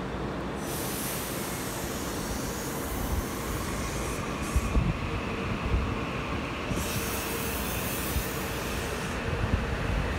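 Metro-North M8 electric commuter train running past on the rails, with high wheel squeal in two stretches, one starting about a second in and one near seven seconds. Occasional clunks of the wheels come through the steady rumble.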